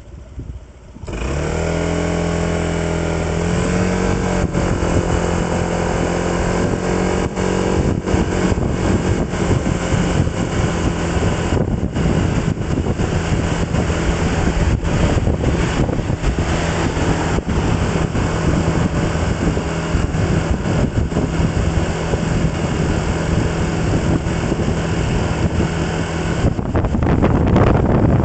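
Vehicle engine pulling away about a second in, its pitch rising as it accelerates, then running steadily at cruising speed with wind noise on the microphone.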